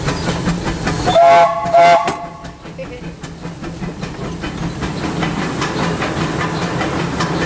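A Disneyland Railroad steam locomotive's whistle gives two short, loud blasts about a second in, a chord of several tones. Around them, heard from inside the cab, are steady steam hiss and the even, rhythmic beat of the running locomotive.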